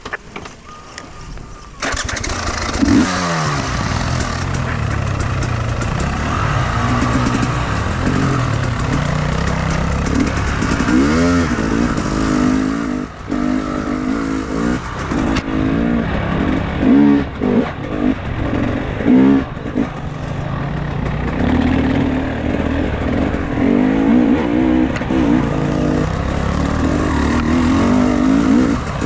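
Enduro motorcycle engine starting about two seconds in, then running and revving up and down over and over, with a run of quick throttle blips midway.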